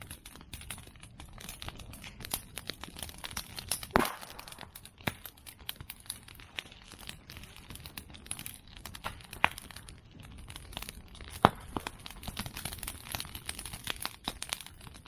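Open fire of cut women's bamboo (onna-take) and chestnut prunings crackling fast and unevenly. Two sharper, louder pops stand out, about four seconds in and past eleven seconds.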